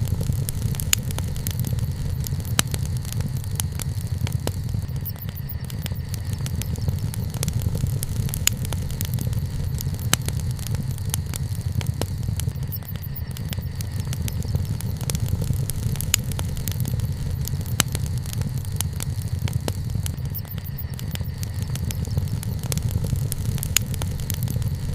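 Wood bonfire crackling, with frequent sharp, irregular pops and snaps over a steady low rumble.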